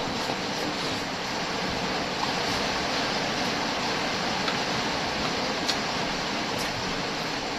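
Rain falling steadily: an even rushing hiss, with a few faint clicks about halfway through and near the end.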